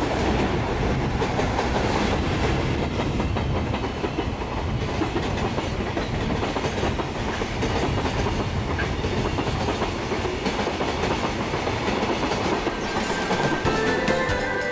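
JR Freight container train hauled by an EF210 electric locomotive passing, a steady rumble of wheels on rail with the clickety-clack of rail joints. There is a run of sharp clicks near the end.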